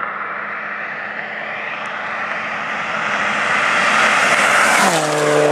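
Supercharged Chevrolet Cobalt SS approaching flat out at well over 100 mph and passing close by. A rushing engine-and-wind noise builds steadily louder, then, near the end, the engine note drops sharply in pitch as the car goes past.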